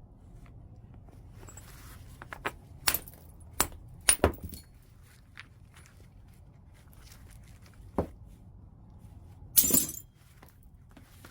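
Stone-on-chert flintknapping strikes: a series of sharp, glassy clicks as flakes are struck from white chert, several in quick succession in the first half, one more about eight seconds in, then a longer, rougher noise near the end.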